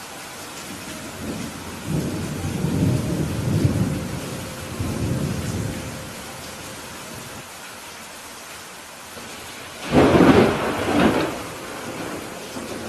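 Steady rain falling during a thunderstorm. A low rolling rumble of thunder builds about two seconds in and fades by about six seconds. About ten seconds in comes a louder, sharper thunderclap that peaks twice within a second.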